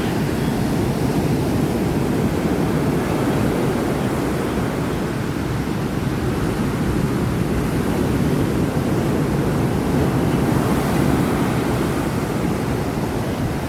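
Steady rush of heavy surf in strong wind, with the wind buffeting the microphone.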